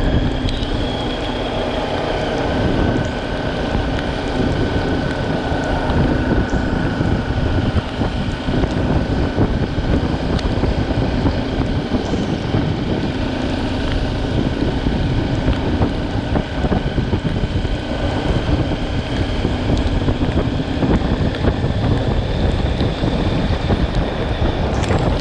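Wind buffeting the microphone over a motorcycle engine running steadily while riding.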